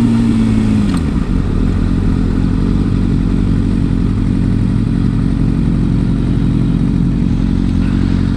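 Motorcycle engine winding down as the bike slows, settling into a steady idle about a second in.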